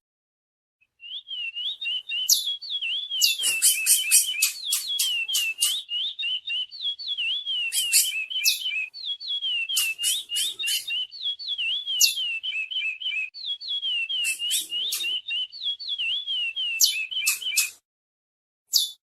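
Curió (chestnut-bellied seed finch) singing a fast, warbling whistled song of quick up-and-down notes, with sharp high chips mixed in. The song starts about a second in and stops shortly before the end, followed by one short high note.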